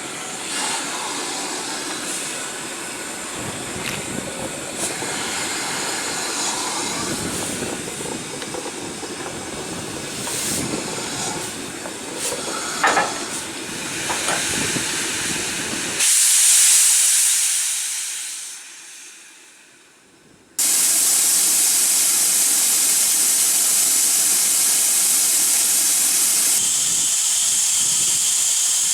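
Steam hissing from a steam locomotive. Past the middle a loud burst of hiss starts suddenly and fades away over a few seconds. After a short lull a loud, steady hiss of escaping steam cuts in abruptly and carries on, with lighter clatter and knocks before it.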